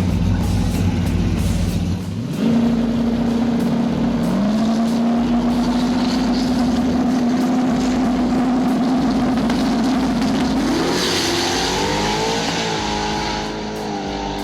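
Two drag-racing cars, an S10 Blazer and a Mustang, launching about two seconds in from a steady high-revving stage and running hard at full throttle. Their engine notes hold loud and climb slowly, with a second engine joining shortly after the launch.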